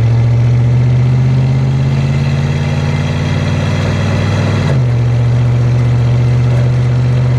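GM pickup truck engine idling steadily, the idle stepping up slightly a little past halfway through.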